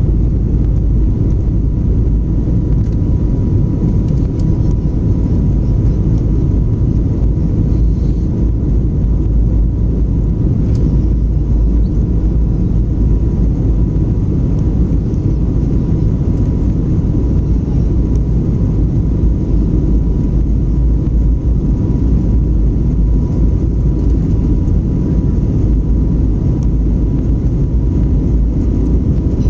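Jet airliner's engines and airflow as a steady low rumble in the cabin during the climb after takeoff, with a thin steady tone running through it.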